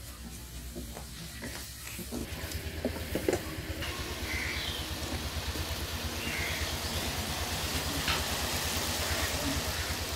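Onion-tomato masala with added water sizzling in an aluminium karahi over a wood fire, with a few knocks of the wooden spatula against the pan about three seconds in. The sizzle becomes louder and brighter about four seconds in, over a low steady rumble.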